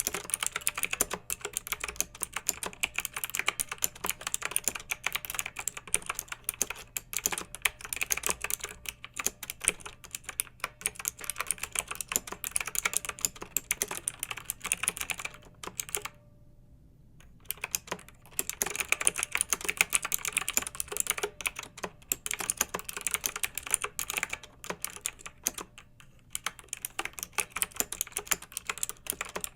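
Clicky mechanical keyboard being typed on fast, in a dense, steady run of keystrokes. The typing stops for about a second and a half a little past halfway, then resumes.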